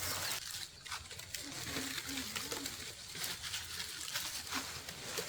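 A bird, likely a dove, cooing softly: a few short low notes about two seconds in, over a steady background hiss.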